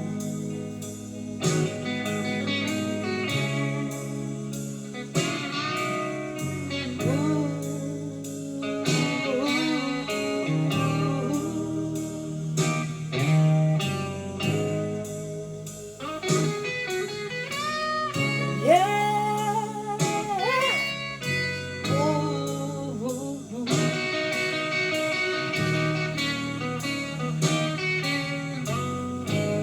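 Blues-rock instrumental break: a slide guitar plays gliding, bending lead lines over a steady drum beat and bass.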